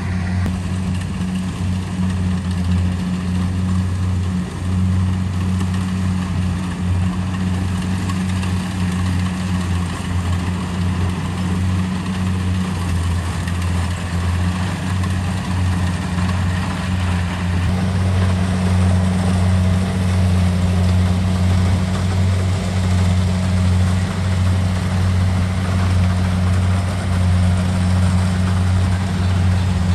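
Kubota DC70 Pro combine harvester's diesel engine running steadily under load, a constant low drone with an even mechanical hiss over it.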